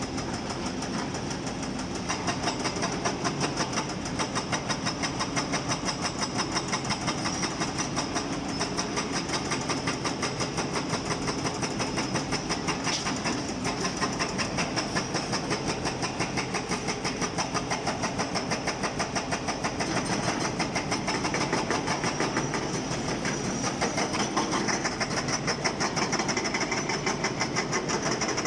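Excavator-mounted hydraulic breaker hammering rock in a fast, even rhythm over the excavator's running diesel engine. The hammering grows louder about two seconds in.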